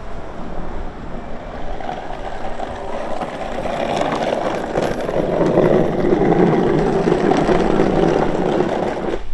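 Noisy rolling rumble of a homemade wooden cart's wheels on a road, growing louder and then cutting off abruptly near the end.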